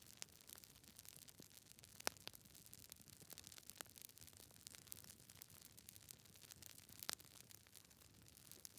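Wood fire crackling in a fireplace: a faint hiss with frequent small pops from the burning logs, a louder pop about two seconds in and another about seven seconds in.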